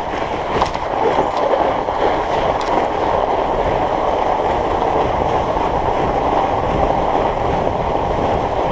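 Studded fat-bike tyres rolling on packed snow and ice, a steady rolling hum with a couple of faint clicks.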